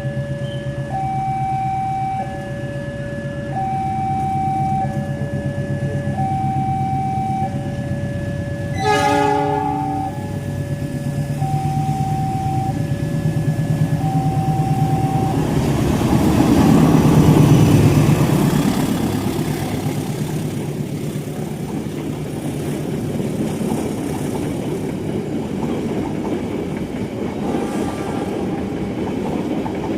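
A level crossing's two-tone electronic warning alarm alternates about once a second, with a short train horn blast about nine seconds in. A train then passes close by: its rumble swells to a peak about halfway through and gives way to the steady rattle of carriages on the rails.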